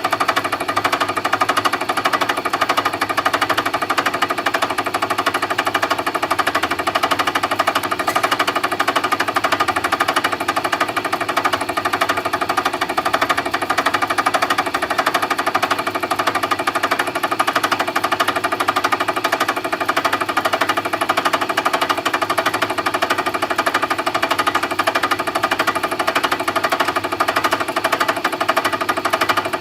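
Milling machine cutting, a steady fast rattle that keeps an even pitch with no break.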